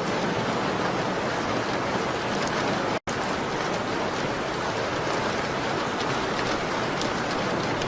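Steady rain pattering on a window, an even hiss with scattered faint drop ticks. It cuts out completely for a split second about three seconds in.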